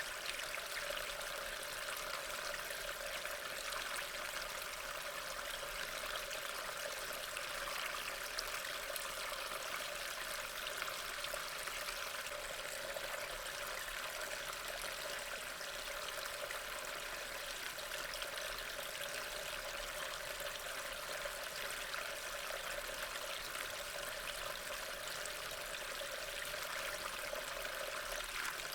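Steady rain falling, an even continuous hiss with no changes.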